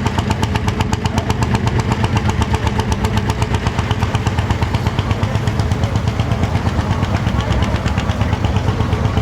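Lanz Bulldog tractor's single-cylinder two-stroke hot-bulb engine running steadily, with an even, rapid beat of about seven or eight firings a second.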